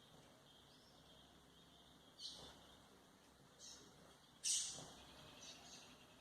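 Golinha (white-throated seedeater) giving four short, high chirps about a second apart, the third the loudest, over a faint steady hiss.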